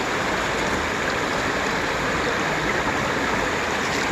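Mountain stream water rushing steadily, an even, unbroken wash of noise.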